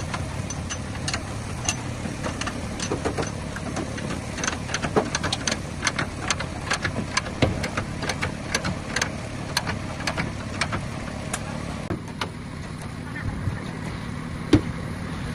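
Workshop noise: irregular sharp clicks and knocks over a steady low hum, with the hum's upper hiss dropping a little about twelve seconds in.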